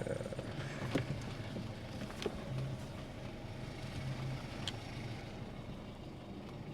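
Car running at low speed, a steady low hum with a few light clicks.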